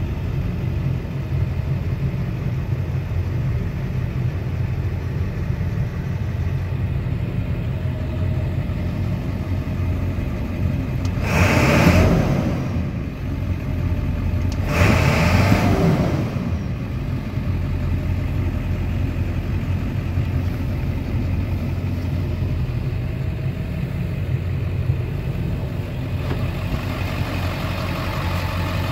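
Ford 7.3 L Powerstroke V8 turbo diesel idling steadily, revved up briefly twice around the middle and dropping back to idle each time.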